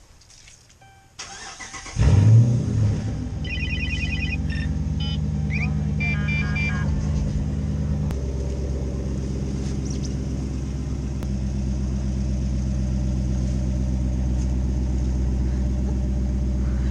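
Dodge Charger engine cranking and catching about two seconds in, flaring up briefly on start-up, then settling into a steady idle that steps down a little about eight seconds in. Dashboard chimes sound a few times soon after it starts.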